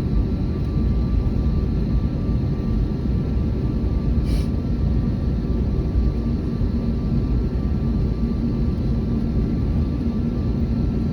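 Airbus A321neo jet engines running, a steady low rumble with a faint steady hum. A brief high click about four seconds in.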